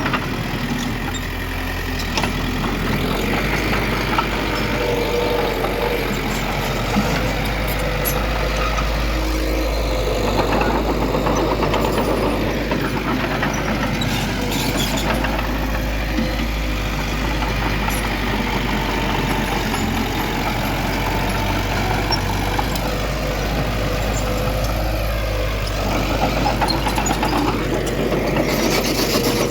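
Heavy diesel engine of earth-moving machinery running steadily, with a few short clanks.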